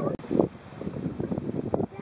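Wind rumbling on the microphone, with a few faint knocks and a louder burst about half a second in.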